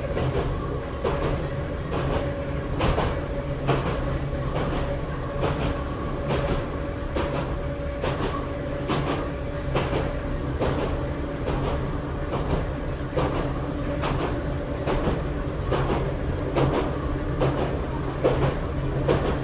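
Interior running sound of the Kanbara Railway's Moha 31 electric railcar: a continuous rumble and steady hum, with the wheels clacking irregularly over rail joints.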